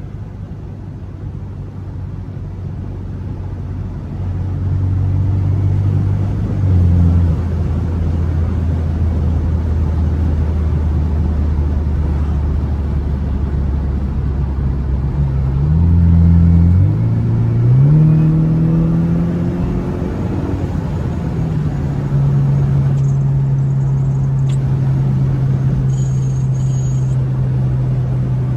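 BMW F32 428i's engine breathing through an aFe aftermarket intake while driving, heard from inside the car. It drones steadily at low revs, then the revs jump and fall back a few times and climb under acceleration about two thirds of the way in, before settling to a steady higher drone.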